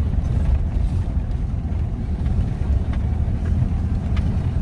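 Off-road vehicle engine running with a steady low rumble while driving.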